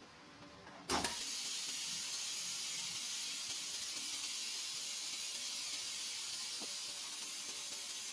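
A sharp click about a second in, then a steady air hiss from an EN-501C flex-cable bonding machine as its press starts its cycle.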